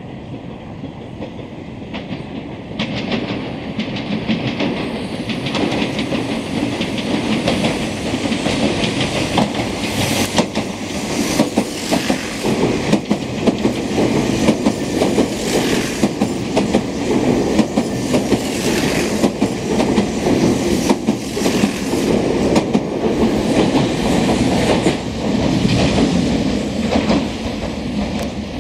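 Meitetsu limited express electric train running through the station without stopping, loud, with its wheels knocking rapidly over the rail joints. The noise builds about three seconds in as the train reaches the platform.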